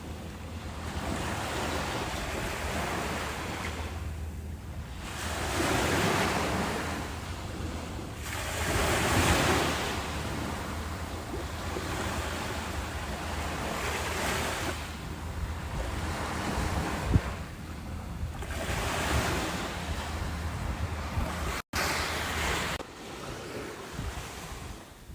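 Ocean waves breaking, the wash swelling and easing every few seconds, over a steady low rumble of wind on the microphone. The sound cuts out for an instant near the end.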